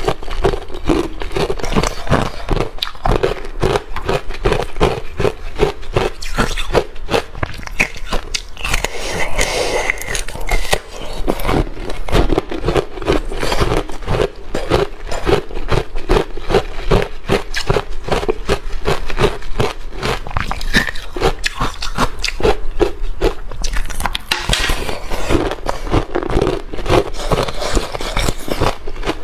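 A person biting and chewing ice: a dense, unbroken stream of crisp crunches, many a second.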